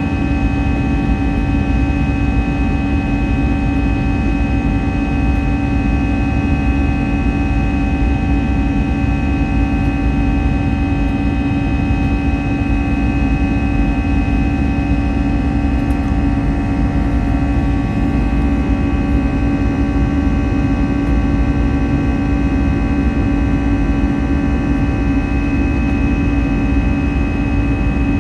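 Airbus A320 jet engines running steadily, heard inside the passenger cabin as an even rumble with a strong low hum and several constant whining tones, neither rising nor falling.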